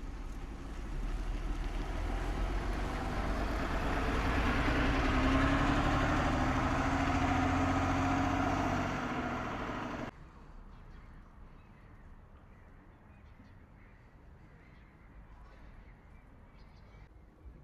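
A motor vehicle driving past on a street, growing louder to a peak about five seconds in, with tyre noise and a low engine tone. The sound cuts off abruptly about ten seconds in, leaving quiet outdoor ambience.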